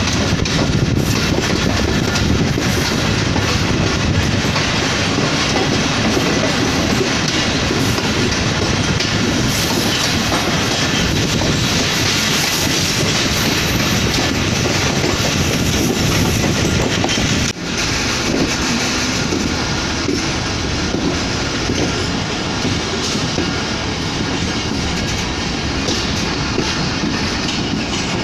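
A train running on its rails, heard from aboard the moving train: a steady loud rumble with the wheels clattering over the rail joints. The sound drops out sharply for a moment about two-thirds of the way in, then picks up again.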